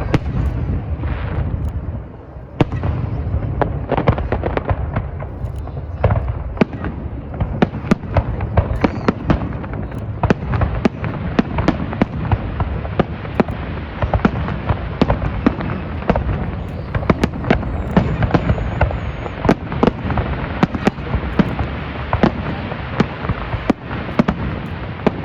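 Fireworks display going off in a dense barrage: many sharp bangs and crackles a second over a continuous deep rumble, with a short lull about two seconds in.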